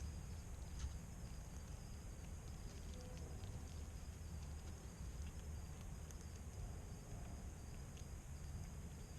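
Evening outdoor ambience: a steady high-pitched insect trill over a low rumble, with scattered faint clicks and taps.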